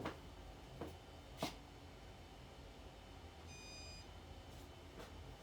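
A few soft clicks, then a single short electronic beep about halfway through from a Casablanca ceiling fan control as the fan is switched to reverse.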